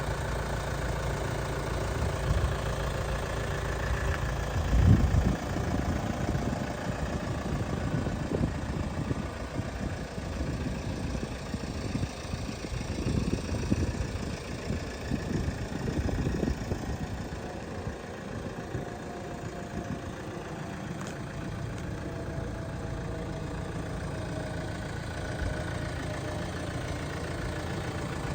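2013 Kia Sportage's 2.0-litre turbo-diesel engine idling steadily, with a loud low thump about five seconds in.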